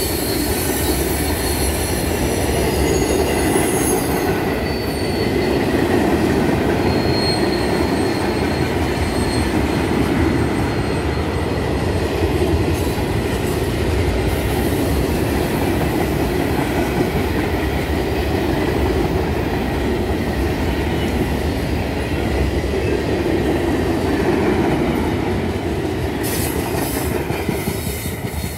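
Freight train cars, mostly tank cars, rolling past with a steady rumble of wheels on rail. Thin high wheel squeal sounds in the first few seconds and again around eight to twelve seconds in, as the train takes a connection track. The sound fades near the end as the last cars pull away.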